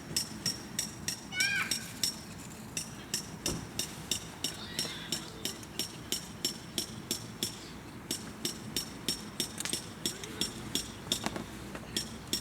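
An autumn insect chirping at an even pace, about four high, sharp chirps a second. A couple of short sliding calls come in about a second and a half in and again near the end.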